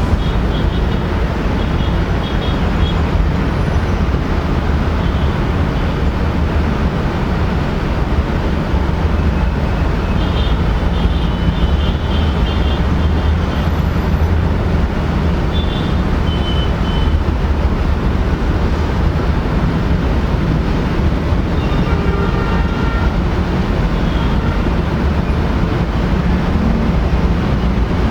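Aircraft engine noise: a loud, steady low rumble that holds level throughout, with faint high tones flickering in and out.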